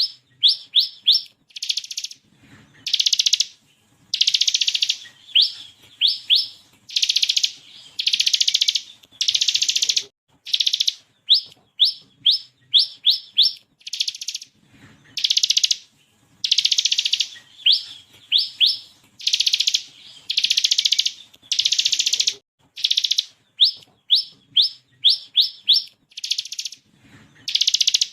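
Bar-winged prinia (ciblek kristal) singing. Buzzy rattling bursts about a second long alternate with quick runs of three or four sharp, rising 'shot' notes.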